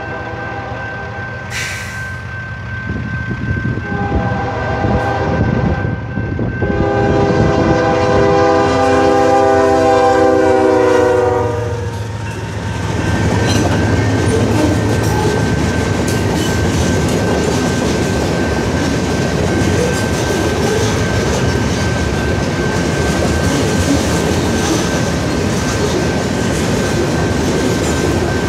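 Diesel freight locomotive's air horn sounding several chord-like blasts for a road crossing, the last one long and held for about five seconds. It then gives way to the steady rumble and clatter of freight cars rolling fast over the crossing.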